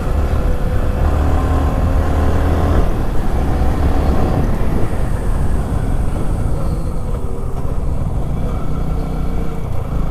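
Benelli 600i's inline-four engine running steadily under way on a motorcycle ride, with a low rumble and some wind noise on the microphone.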